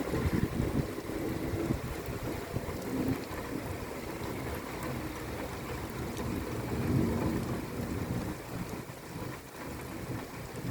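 Rain beating on window glass and a windowsill, with low rumbles that swell up about a second in and again past the middle.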